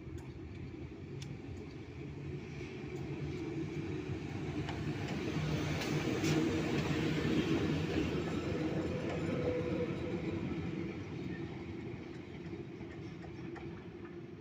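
Electric locomotives rolling past on the rails, a steady rumble with motor hum that swells as they pass close and then fades as they move away.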